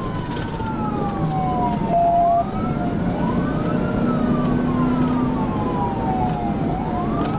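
Police cruiser siren in a slow wail, rising and falling about every three and a half seconds, over steady engine and road noise at high speed. A short loud steady beep sounds about two seconds in.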